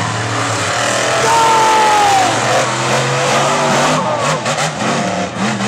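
Monster truck engines racing at full throttle. A high whine falls in pitch around the middle as the engines ease off, and a run of sharp cracks and pops comes over the last second and a half.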